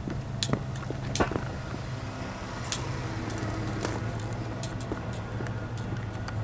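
An engine idling with a steady low hum, with scattered sharp clicks and knocks over it.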